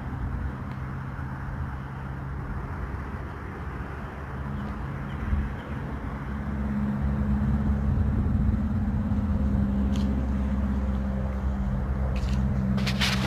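A motor running with a steady low hum that grows louder about six seconds in, with a few sharp clicks near the end.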